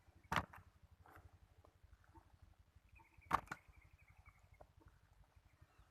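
Two sharp knocks about three seconds apart over a faint low hum.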